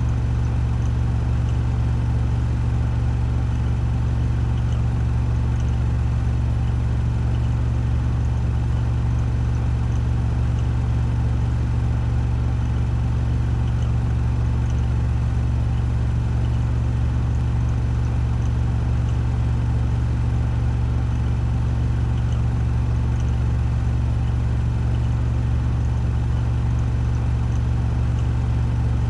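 Washing machine drum spinning at 1400 rpm on its spin cycle: a steady, unchanging low hum with a fainter whir above it.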